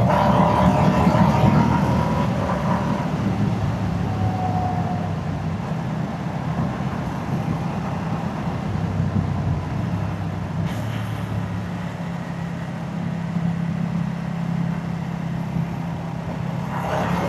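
Moto Guzzi motorcycle's transverse V-twin engine and exhaust on the move, rising a little in pitch in the first few seconds and then running at a steady pace.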